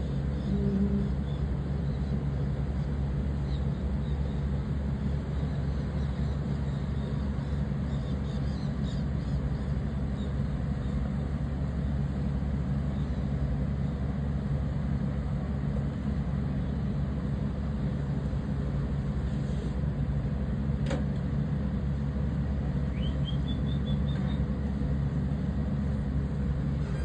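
Steady low mechanical rumble with a constant hum, like an engine or machinery running. A few faint high bird chirps come through it, a short run of them near the end, and there is one sharp click about two-thirds of the way in.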